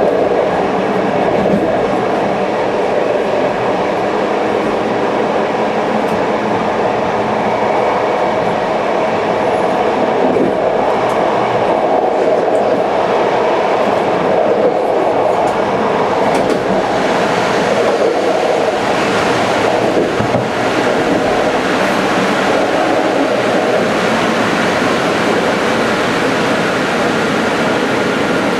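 Passenger train running steadily along the line, heard from on board: a continuous rumble of wheels on rails with some clickety-clack.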